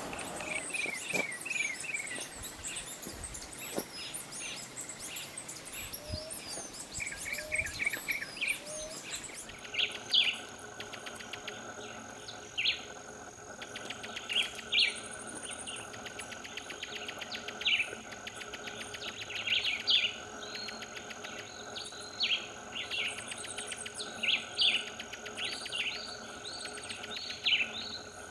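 Wild birds calling. First come quick series of falling chirps. After an abrupt change about ten seconds in, short sharp calls repeat every second or two over a steady, insect-like high drone.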